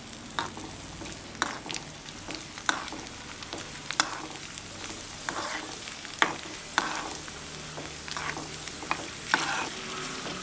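Cashews and raisins frying in ghee in a small kadai, a steady sizzle, while a steel spoon stirs them, scraping and tapping against the pan at irregular intervals of about a second. The spoon strokes are the loudest sounds.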